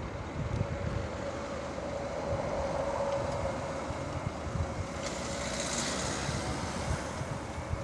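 Distant aircraft engines running with a steady hum, swelling in hiss for a moment about five seconds in, with wind buffeting the microphone.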